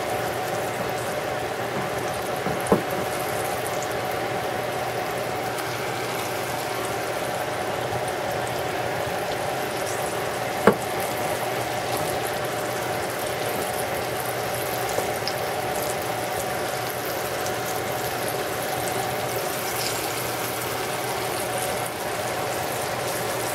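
Breaded zucchini slices shallow-frying in a pan of hot oil, a steady sizzle and bubbling with a faint steady hum underneath. Two short clicks cut through it, a small one about three seconds in and a sharper one about ten seconds in.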